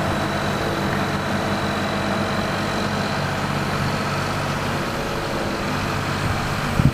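Heavy truck engine running steadily at low speed, a constant low hum.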